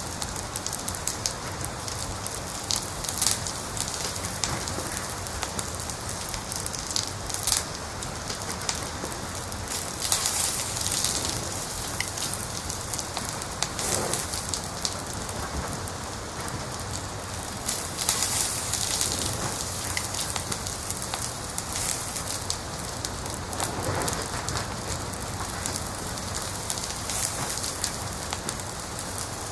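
Wood fire crackling: scattered sharp pops and snaps over a steady hiss, with brief denser flurries of crackling about ten and eighteen seconds in.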